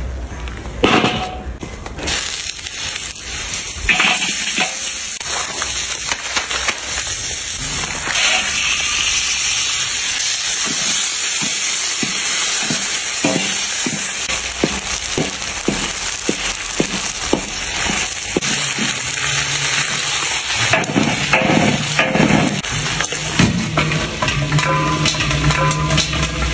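Chicken pieces sizzling in hot oil in a large wok over a wood fire, with a spatula knocking and scraping against the wok as they are stirred, a run of knocks about two a second in the middle. Music comes in near the end.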